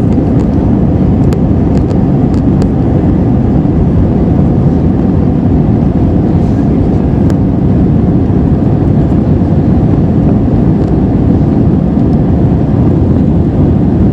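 Steady in-flight roar of an Airbus A320-214 with CFM56-5B engines, engine and airflow noise heard inside the passenger cabin.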